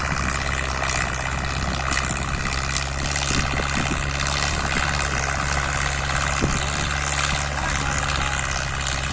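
Powertrac Euro 60 Next tractor's diesel engine running steadily at speed while pulling a harrow, a constant drone with a wide rushing noise over it.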